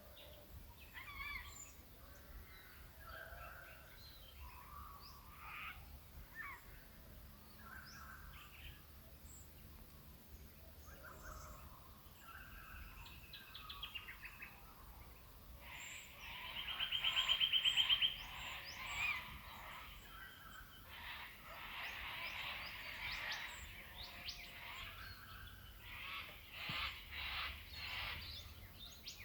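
Dawn chorus of several birds calling and chirping. About sixteen seconds in, one bird gives a loud, rapid trill that builds for about two seconds and then stops.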